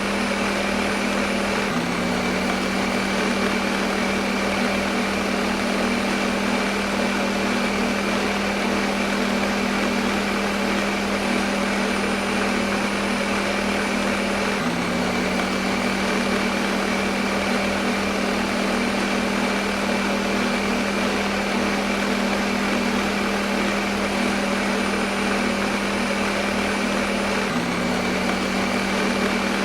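Electric blender motor running continuously: a steady whir with a strong low hum. The hum briefly dips and steps back up about every 13 seconds.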